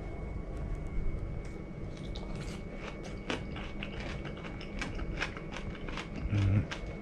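Close-up chewing of a slice of cooked bitter melon (goya): a run of short, crisp crunches, one after another.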